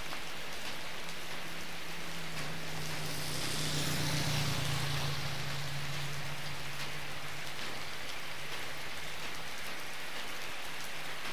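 Steady rain falling on a wet road, an even hiss. A vehicle's low hum swells to its loudest about four seconds in and fades away.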